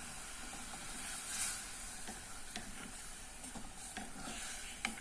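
Chicken pieces sizzling steadily in a thin, bubbling liquid in an aluminium saucepan, stirred with a wooden spoon that knocks lightly against the pot a couple of times.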